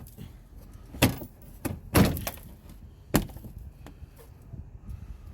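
Loud knocks and thuds about a second apart, three strongest, with lighter clatter between: hands and tools knocking against the underside of a Mercedes S550 while working loose a stuck screw on the front underbody shield.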